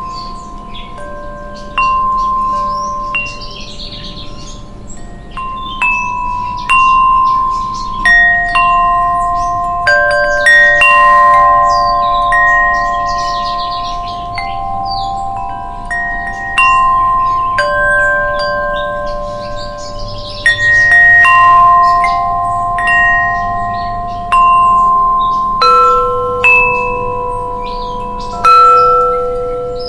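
Wind chimes stirred by the wind, struck at irregular moments, with several clear pitched tones ringing on and overlapping.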